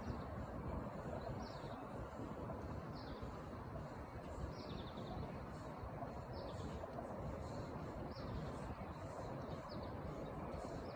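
A bird chirping over and over, a short falling note about every second and a half, over a steady low rumble.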